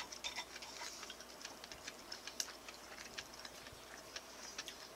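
Quiet chewing and mouth sounds of someone eating stir-fried pork with chopsticks: an irregular scatter of small clicks and smacks.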